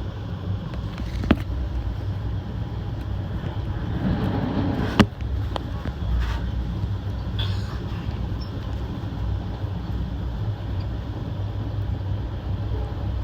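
Steady low rumble of a passenger train coach running along the track, heard from inside the car, with two sharp clacks about a second in and about five seconds in, the second the louder.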